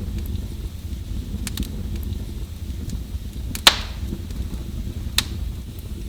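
Wood fire burning in a fireplace: a steady low rumble with sharp crackles and pops from the burning logs. The loudest pop comes about three and a half seconds in, and another just after five seconds.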